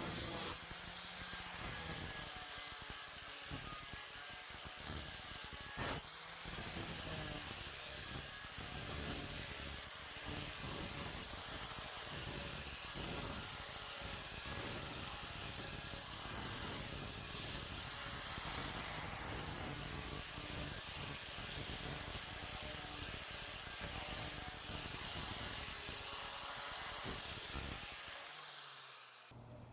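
Small electric power tool running steadily with a high whine, working on metal, with a sharp click about six seconds in; it stops near the end.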